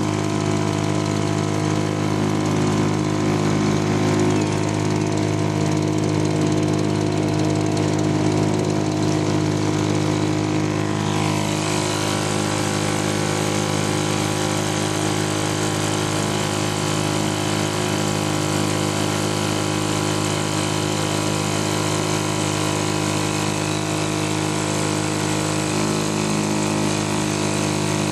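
British Seagull two-stroke outboard motor running steadily at an even speed. About eleven seconds in, a steady hiss comes up over the engine note and stays.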